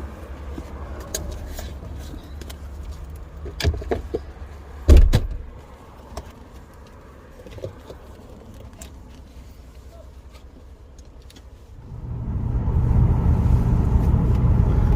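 Small clicks and rattles of things being handled, and a car door shut with a heavy thump about five seconds in. About twelve seconds in a car engine starts and runs steadily.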